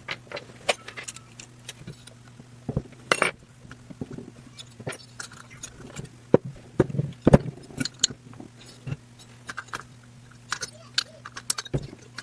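Irregular metal clinks and clicks of hand tools and parts as a carburetor is fitted to a motorized bicycle's two-stroke engine, over a steady low hum.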